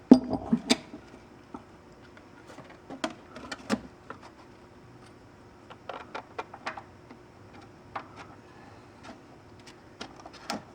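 Irregular sharp clicks and knocks of equipment being handled, with a cluster of louder knocks in the first second and scattered ones after.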